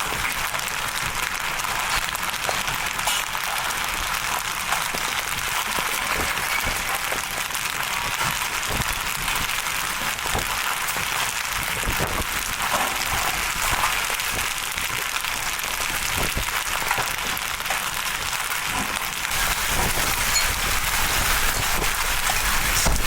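Large wind-driven hail and rain pelting down: a steady dense rush of noise with scattered sharp knocks of hailstones striking hard surfaces.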